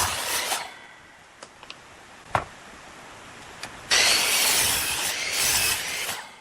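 Woodworking noise: two long bursts of scraping, hissing noise, one at the start and a longer one from about four seconds in, with a single sharp knock and a few light clicks in the quiet between them.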